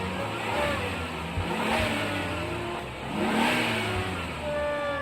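Car engine running and revving, its pitch rising and falling repeatedly: a car sound effect for a toy police-car chase.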